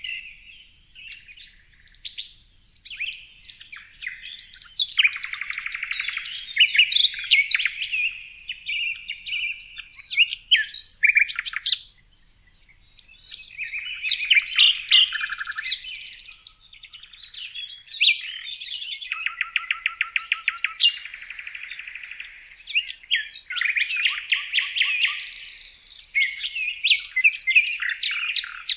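Songbirds chirping and singing, several overlapping calls with quick trills, including a fast run of rapidly repeated notes about two-thirds of the way through.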